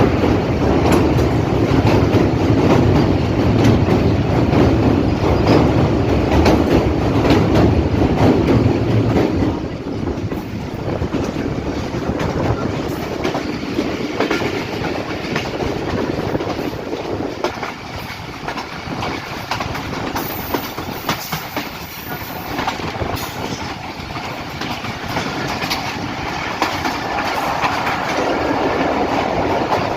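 Passenger train running at speed, its coach wheels clicking over the rail joints in a steady clickety-clack. A heavy low rumble for about the first nine seconds, typical of a train crossing a steel bridge, drops away suddenly and leaves the lighter rattle of the wheels on the track.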